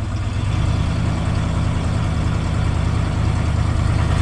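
Ford F100's 302 V8 with a two-barrel carburettor idling rough just after being flooded on a warm start: it is running rich.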